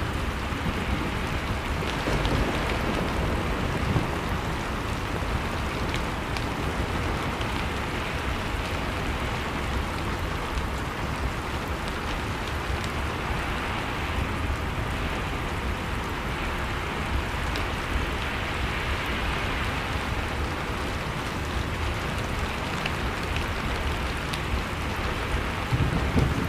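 Fireplace crackling over the steady rush and low rumble of blizzard wind, with a few small pops here and there.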